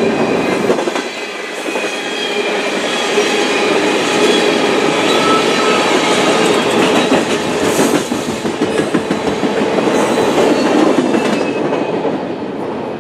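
Freight train's tank cars and hopper cars rolling past at close range: steel wheels clacking over the rail joints with a steady rumble, and faint high wheel squeal tones now and then.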